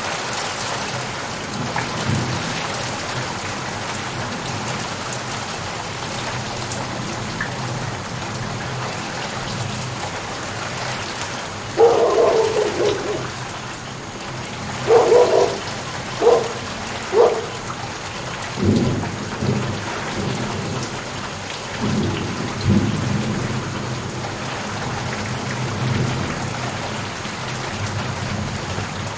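Steady rain with thunder: a run of louder cracks and rumbles breaks through the rain about halfway through, then dies back to the even patter.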